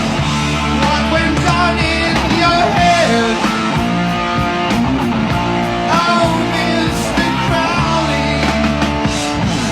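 Classic hard rock song: a singing voice over electric guitar, bass and drums with a steady beat.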